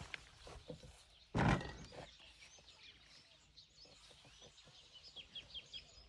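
Outdoor ambience with a loud, short, rough burst of sound about a second and a half in, and faint high chirps scattered through, more of them near the end.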